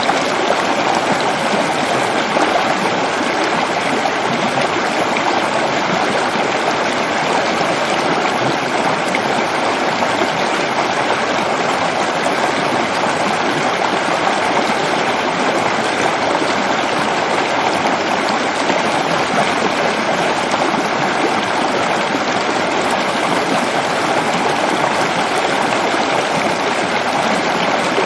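Waterfall rushing steadily, a loud, even wash of falling water with no breaks.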